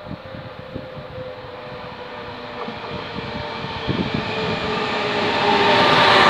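Trenitalia E.464 electric locomotive hauling a regional train, approaching and drawing alongside. The rumble of its wheels on the rails grows steadily louder, with a faint whine that slowly falls in pitch.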